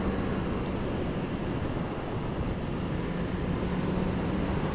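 Riding wind rushing over the microphone, with the Honda CB650F's inline-four engine running steadily at cruise as a faint low hum underneath.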